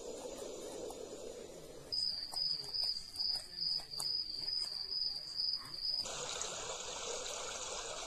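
Dreamegg Pocket Sleep 1 white-noise machine playing its recorded soothing sounds. From about two seconds in, a high-pitched cricket chirp comes in short pulses. About six seconds in it switches to a steady rushing noise like running water.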